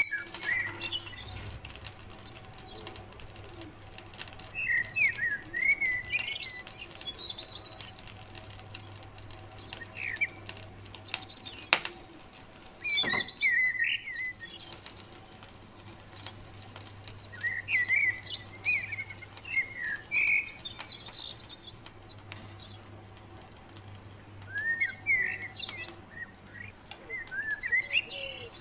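Small birds chirping in short bursts of quick, rising and falling calls every few seconds, over a faint steady low hum.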